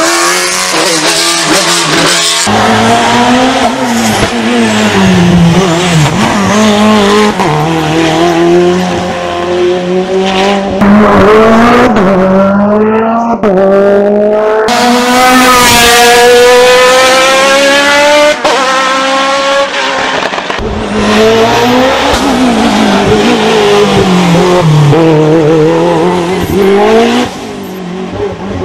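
Hill-climb racing cars running at full throttle, their engines revving up and dropping back with each gear change as they accelerate past, one car after another. In the middle, one engine note climbs steadily for several seconds.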